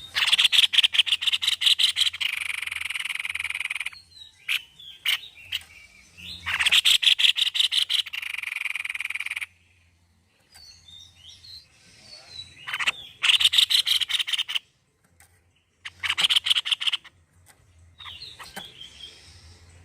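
White-necked babbler (tepus leher putih) calling: four loud phrases of fast rattling notes, each lasting two to three seconds, with softer chirps in between.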